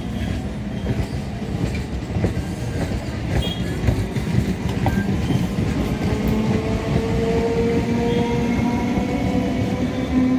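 Electric multiple-unit local train moving past along the platform and gathering speed: a steady rumble and clatter of wheels on the rails, with the traction motors' whine slowly rising in pitch.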